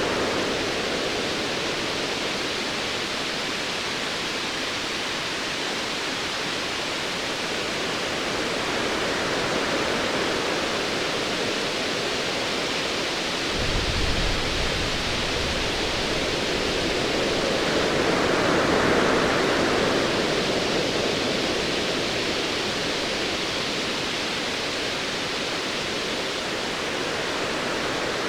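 Ocean waves washing steadily, with a low roll of distant thunder that comes in suddenly about halfway through and fades over a few seconds. A wave swells up a little later.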